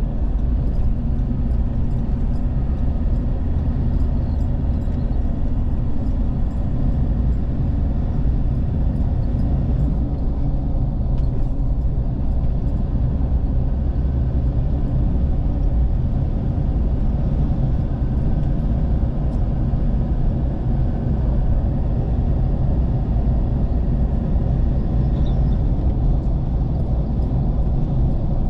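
Steady low rumble of a vehicle driving along a road: engine and tyre noise with no changes.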